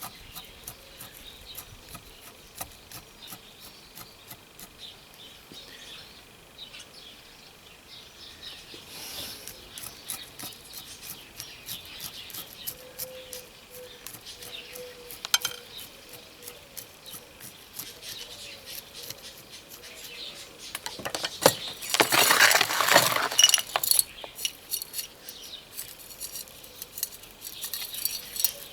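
Light clicks and clinks of small hard objects handled during bonsai work, with a louder rattling scrape lasting about three seconds around three-quarters through.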